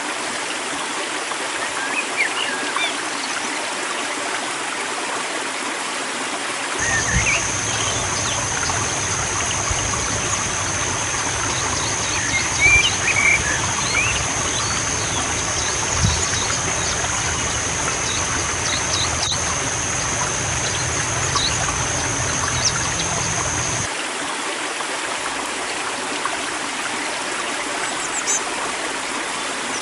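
Stream flowing steadily, with small birds chirping now and then. A steady high-pitched whine joins about seven seconds in and stops suddenly near twenty-four seconds.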